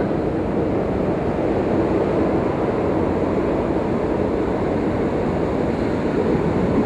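Steady rumble of a Sydney suburban electric train running.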